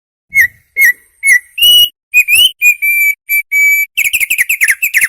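Opior (white-eye) singing in clear whistled notes: three short separate notes, then longer held whistles, breaking into a quick run of falling notes near the end.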